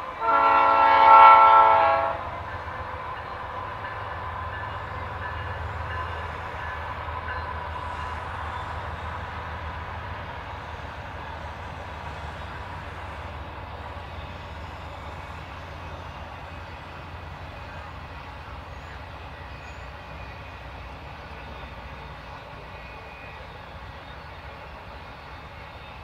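Canadian Pacific freight locomotive's air horn sounding one loud blast of about two seconds. It is followed by the steady low rumble of the four-unit diesel consist rolling past, slowly fading.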